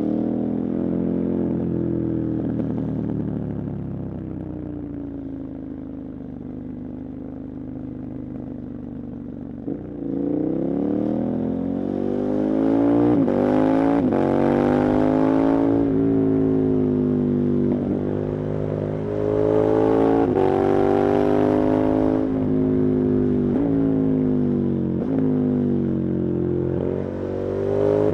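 KTM 1290 Super Adventure's 1301 cc V-twin engine ridden hard. For the first ten seconds or so the revs ease off; from about ten seconds in it accelerates through several gears, the pitch climbing and dropping abruptly at each shift, with wind rush growing at speed.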